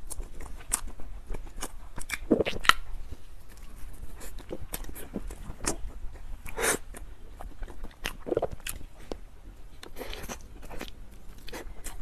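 Close-miked chewing and biting of an Oreo snow-skin dessert filled with cream and Oreo cookie crumbs: a steady run of short, irregular mouth clicks.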